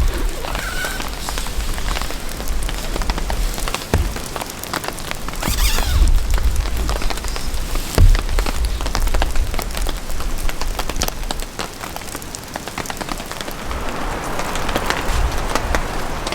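Rain falling, with many drops ticking sharply on a nearby surface, while gusts of wind buffet the microphone in uneven low rumbling surges.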